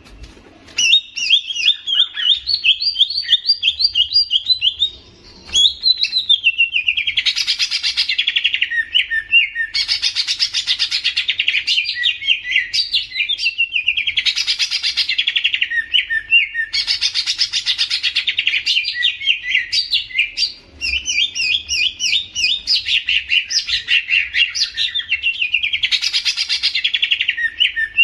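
A songbird singing loud, rapid chattering phrases, each two to three seconds long and sliding down in pitch at its end, repeated after short pauses.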